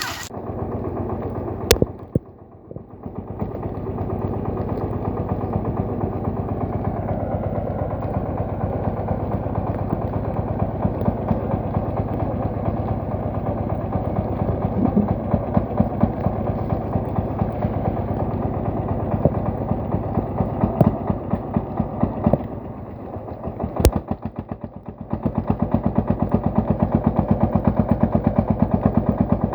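Single-cylinder horizontal diesel engine of a công nông farm truck running with a fast, even chugging beat. It eases off briefly near the start and again about three-quarters of the way through, then runs harder with sharper beats near the end.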